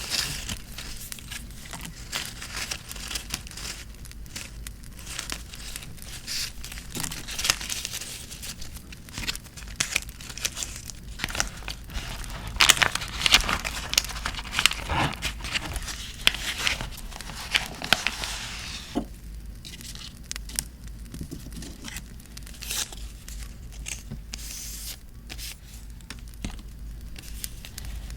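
Paper being torn and crinkled by hand, busiest and loudest around the middle, with many small crackles; a campfire crackles softly underneath.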